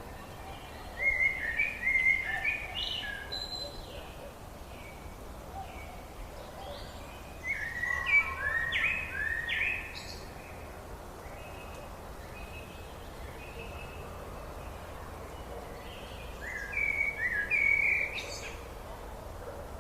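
A songbird singing three phrases of quick, stepped, whistled notes: one near the start, one in the middle and one near the end, over a steady background hiss.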